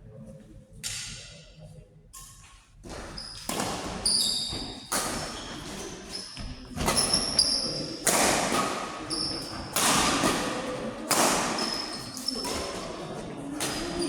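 A run of sharp hits and thuds in a large hall, about one every second, from play in a doubles match, with short high-pitched squeaks between them.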